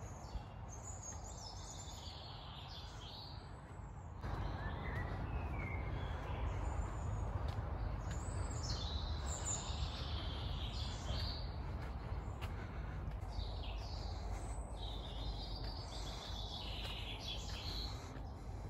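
Woodland songbirds singing, a run of quick chirping and warbling phrases one after another, over a steady low rumbling noise that grows louder about four seconds in.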